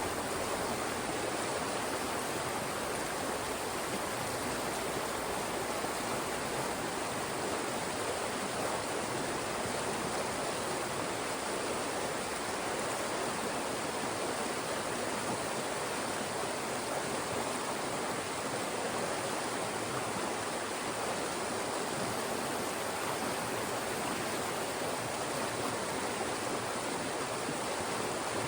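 Fast-moving mountain stream rushing through channels between rocks: a steady, even rush of water with no breaks.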